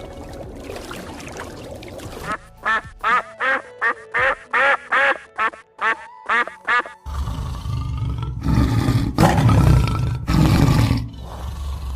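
A duck quacking: a quick series of about a dozen short calls. After that come several loud, rough, low-pitched bursts from another animal.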